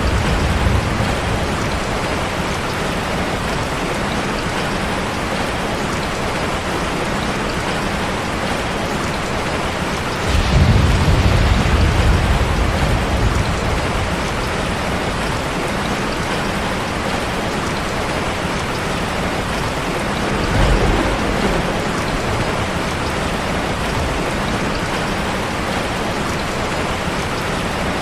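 Steady heavy rain, with low rolls of thunder: a longer one about ten seconds in and a shorter one about twenty seconds in.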